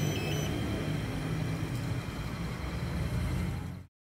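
Queensland Rail Tilt Train running away from the camera with a steady low rumble and hum. A repeating electronic warning beep stops about half a second in, and the sound cuts off suddenly just before the end.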